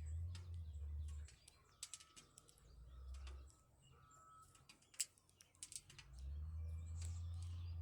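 Faint bird chirps in short, thin calls, among scattered sharp clicks, one louder click about five seconds in. A low rumble on the microphone fades out after about a second and comes back near the end.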